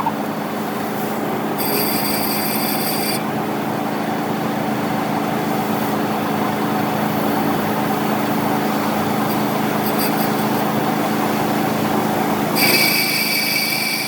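A workshop machine running with a steady hum, joined twice by a high-pitched whine of a second and a half or so each, near the start and near the end.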